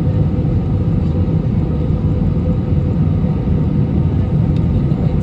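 Airliner cabin noise: a steady, loud low rumble of engines and airflow, with faint steady tones above it.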